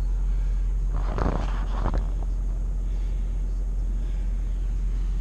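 Steady low rumble of a car driving, heard from inside the cabin, with a brief rustling clatter about a second in.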